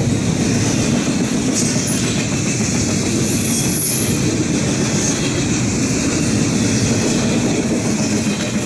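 Freight train cars rolling past, a steady rumble and clatter of steel wheels on the rails, with a brief high wheel squeal about three and a half seconds in.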